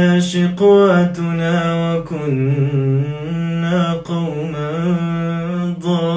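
A man reciting the Quran in melodic tajwid style, holding long drawn-out notes that bend and turn in pitch.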